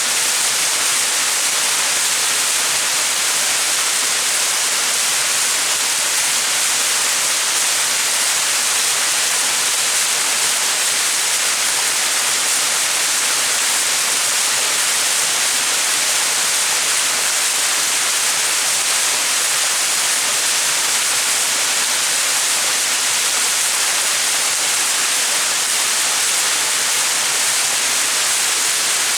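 Small mountain waterfall: a steady rush of falling water splashing.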